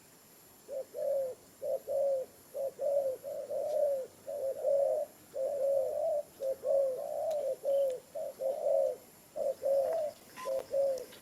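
A dove cooing in a long run of short, arched coos, often in pairs or small groups, roughly two a second, starting about a second in.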